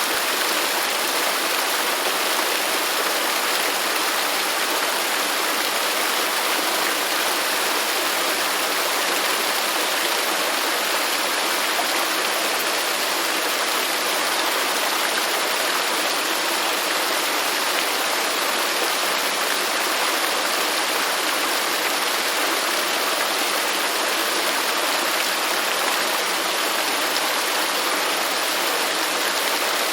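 Waterfall: falling water rushing steadily with an even hiss, with no changes or distinct splashes.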